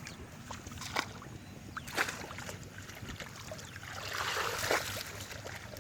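Water splashing and sloshing, with sharp knocks about one and two seconds in and a longer splash about four seconds in.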